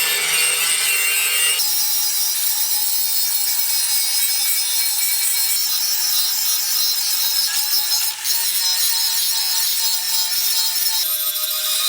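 Steady abrasive scraping of a rusty steel sword blade as rust is ground or sanded off. The tone changes abruptly a few times.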